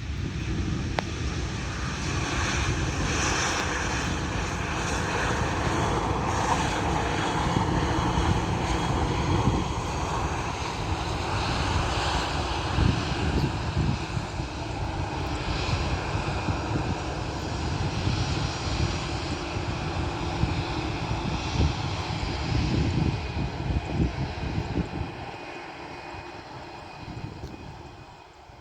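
Twin-engine jet airliner's engines running loud and steady as it passes, with a high whine over the rumble, fading away over the last few seconds.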